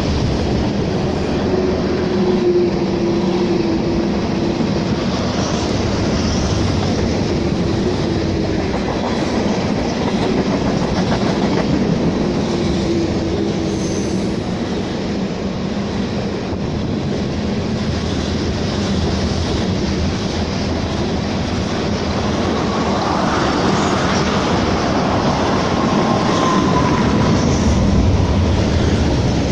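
Double-stack intermodal freight cars of a BNSF train rolling past, their wheels clattering steadily over the rails, with a faint wheel squeal on the curve now and then.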